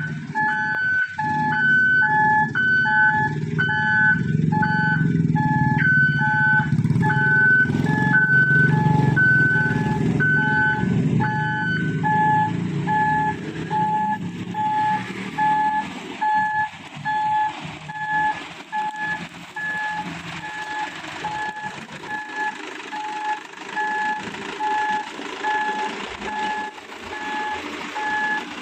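Mitsubishi Fuso Canter dump truck's reversing beeper sounding a steady, evenly repeated beep over the truck's engine. A second, higher beep pattern runs alongside it and stops about twelve seconds in. The engine is loudest over the first half and drops to a lower level about halfway through.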